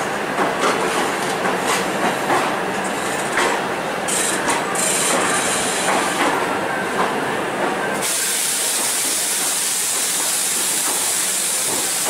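Indian Railways passenger coaches rolling past close by, their wheels rumbling and clicking over the rail joints. About two-thirds of the way through, this gives way suddenly to a steady loud hiss.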